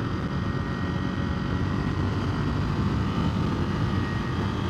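Ducati Monster 797's air-cooled L-twin engine running steadily while the motorcycle is ridden at an even speed, a low, continuous drone with no revving.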